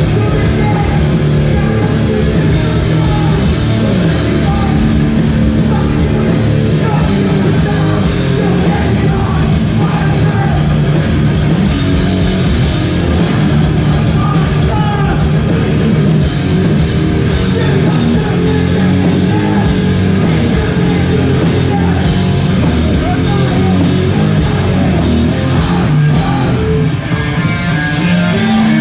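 Hardcore band playing live at full volume: distorted electric guitars, bass and drums with vocals. Near the end the drums drop out and the guitars ring on.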